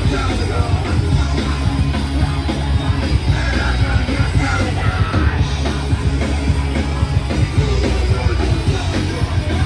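Punk rock band playing live, loud and dense, with yelled vocals over the full band.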